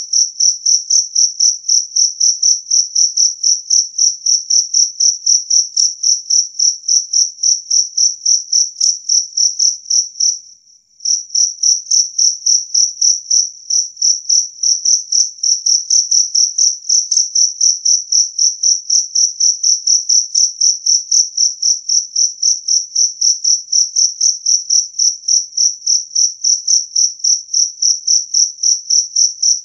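Jangkrik kalung field cricket chirping loudly and steadily, a high-pitched chirp about five times a second, with one brief break about ten seconds in.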